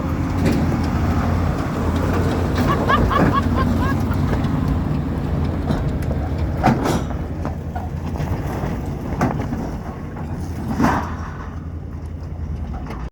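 Off-road truck's engine running steadily at low speed, with a few knocks from the rough trail about seven and eleven seconds in.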